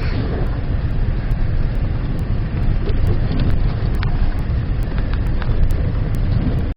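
Acura MDX's 3.7-litre V6 engine running under load with tyre and drivetrain noise as the SUV drives up an off-road hill, a few light clicks over the steady rumble. The sound cuts off abruptly at the end.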